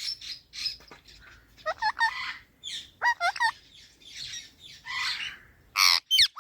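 Indian ringneck parrot calling: a run of short chirps that swoop up and down in pitch, mixed with harsh squawks, the loudest squawk near the end.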